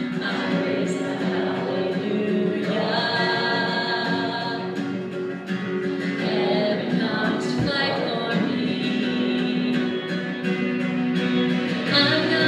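A worship song sung with instrumental accompaniment: a singer's voice over steady, sustained chords.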